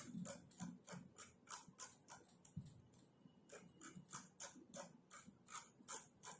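Soft, uneven keystrokes of typing on a computer keyboard, a few taps a second.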